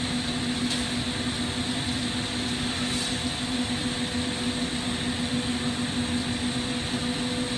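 Steady rushing noise of a glassworking torch flame and shop ventilation, with a constant low hum running underneath.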